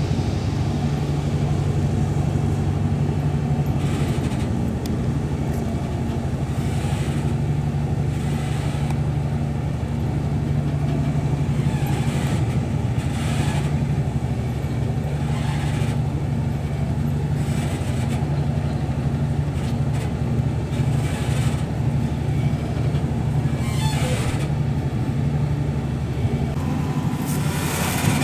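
High-speed passenger boat's engines running with a steady low hum, shifting slightly near the end.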